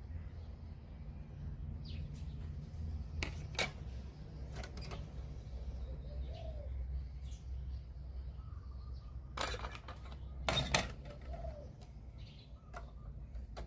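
A few sharp clicks and knocks over a steady low hum, with faint short chirps like distant birds.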